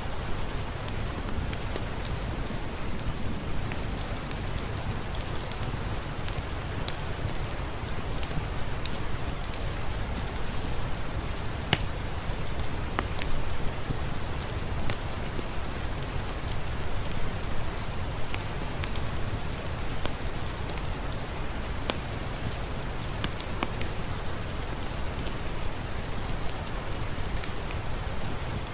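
Steady rain falling on a surface, an even hiss with a low rumbling undertone, dotted with many scattered sharp ticks and pops.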